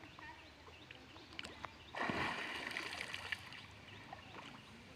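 An elephant kicking and flinging sand: a sudden spraying rush about two seconds in with scattered pattering ticks, dying away over a second and a half.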